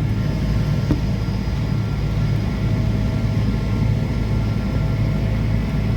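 Steady low rumble and hum inside the cabin of a Boeing 777 airliner taxiing after landing, with a small click about a second in.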